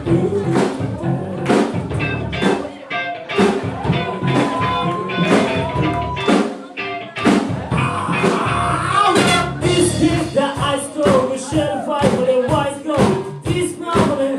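Live band playing: a steady drum-kit beat under electric guitar and bass, with a held high note about four seconds in and a rising swell around eight seconds.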